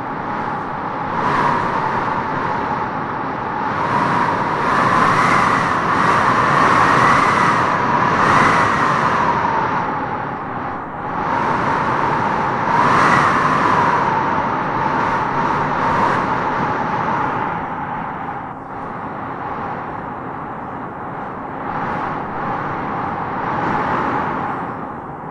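Wind blowing in gusts: a steady rush with a whistling howl that rises and falls in pitch, strongest from about five to nine seconds in and again around thirteen seconds.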